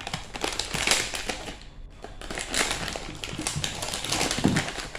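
Snack packaging crinkling and crackling close to the microphone in a dense run of irregular clicks.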